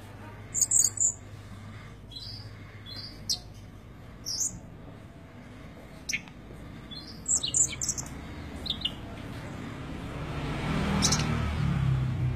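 Small bird chirping in short high calls, one or a few at a time every second or two, over a low steady hum. A louder rushing noise swells near the end.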